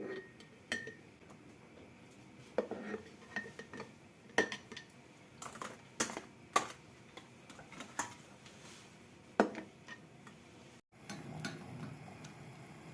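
Kitchen utensils and dishes clinking and knocking, a dozen or so separate sharp clinks, some with a brief ring.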